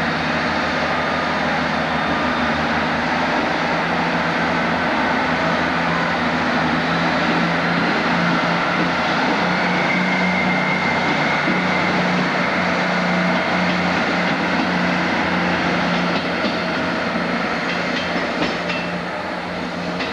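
Diesel train running through with a steady engine note over loud rail and wheel noise; a few wheel clicks over rail joints come near the end as the sound begins to fade.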